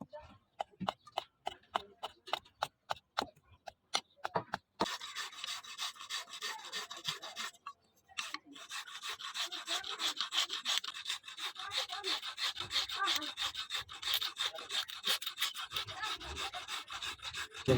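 Steel knife blade being worked by hand against an abrasive. For about five seconds there are separate light strokes or taps, a few a second. Then comes continuous rapid back-and-forth rasping, with a brief pause a few seconds later.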